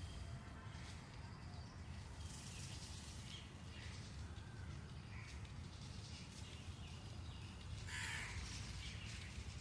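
Several short, harsh bird calls, one loudest about eight seconds in, over a steady low rumble.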